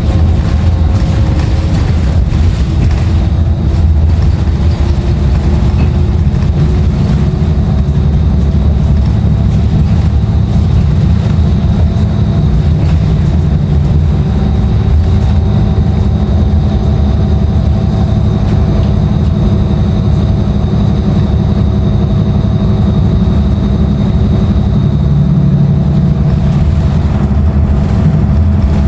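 Inside a 2016 Nova Bus LFS under way: its Cummins ISL9 diesel engine and ZF automatic transmission run steadily under heavy road rumble. A few faint tones drift slowly up and down in pitch.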